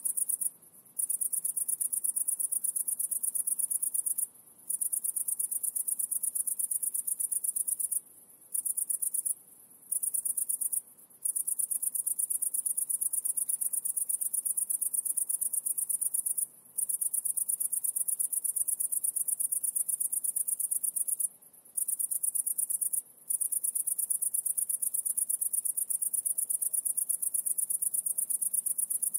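A high-pitched insect trill, cricket-like, running on steadily and broken by short pauses every few seconds.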